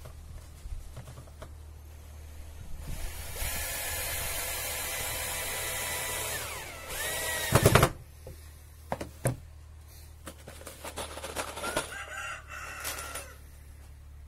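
Power drill running steadily for about four seconds, its whine bending down as it stops, followed by a couple of loud knocks and lighter clicks.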